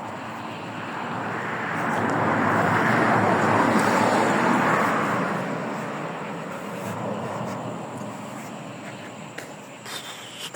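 A car passing by. Its rushing tyre and engine noise swells over about two seconds, peaks, then fades away over the next few seconds.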